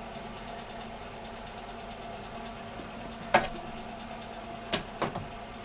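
A steady machine hum with a sharp, loud knock a little past halfway, followed by two or three quicker, lighter knocks near the end.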